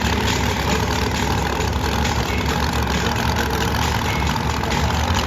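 Monster truck engine running steadily at low revs.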